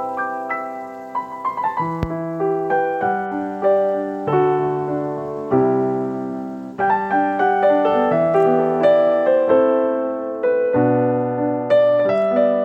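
Background piano music: slow, gentle chords and melody notes, each struck and left to ring.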